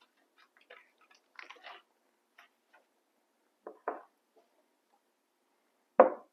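Scattered soft, crackly handling noises of leftover brown sugar and salt seasoning being scraped out of a bowl and spread onto a raw pork roast, with a louder knock near the end.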